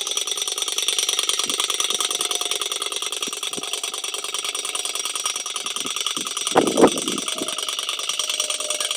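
Solar-heated Stirling hot-air engine running steadily with a fast, even mechanical rattle. Two louder knocks come about two-thirds of the way through.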